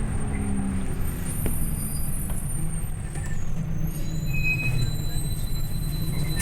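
Scania OmniLink I city bus heard from inside the passenger cabin while under way: a steady low engine and road rumble, with a faint high whine above it.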